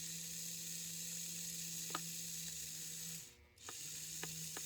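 The small electric motor of a freshly lubricated Fleischmann HO-scale Alco diesel locomotive runs with its powered front truck lifted off the track: a quiet, steady hum. It cuts out for about half a second a little after three seconds in and then starts again, with a few light clicks.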